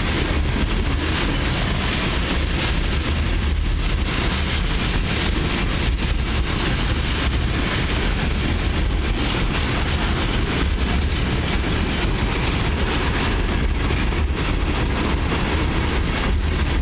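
Long Norfolk Southern freight train of what look like oil tank cars passing at steady speed: a continuous rumble of wheels on rail, with wind buffeting the microphone.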